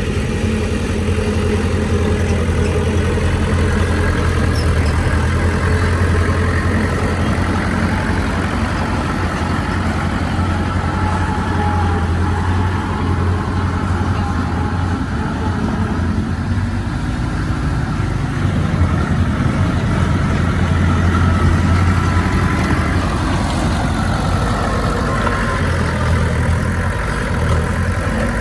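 Heavy diesel engine of earthmoving machinery running steadily. Its low drone swells and eases a few times, loudest a little past the middle.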